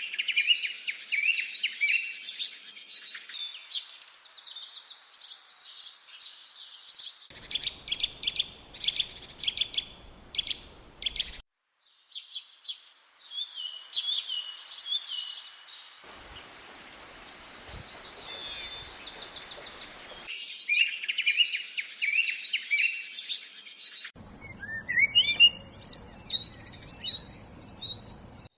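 Small songbirds chirping and singing, several at once, with quick high calls and trills. The background cuts abruptly every few seconds, as clips are spliced together.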